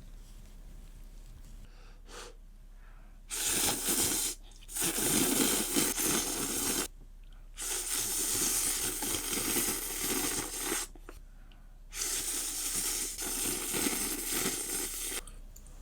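Ramen noodles being slurped loudly four times; the later slurps each last a few seconds.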